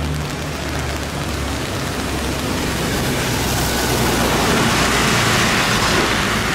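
Steady rain on a wet street, with a low engine hum for about the first second and a half. Vehicle tyres on the wet road grow louder toward the end as traffic passes.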